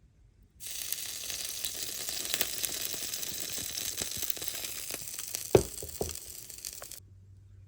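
Heavy rain falling, an even hiss with many small drop crackles, with one sharp thump about five and a half seconds in.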